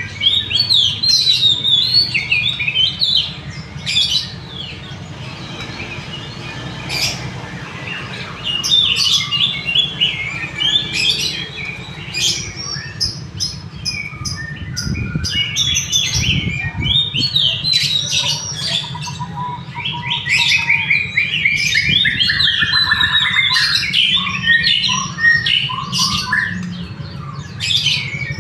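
Many caged songbirds at a bird market chirping and calling at once, with fast runs of repeated notes overlapping throughout, over a steady low background rumble.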